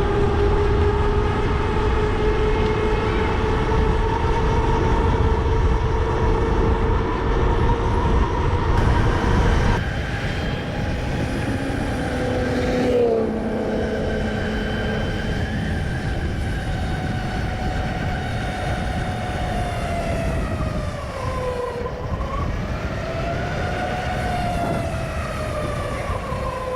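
A motorcycle underway, heard from on the bike: a steady whining tone that slides up and down in pitch with road speed, over wind rush on the microphone. The wind rush and loudness drop about ten seconds in, and the whine falls and rises again a couple of times after that.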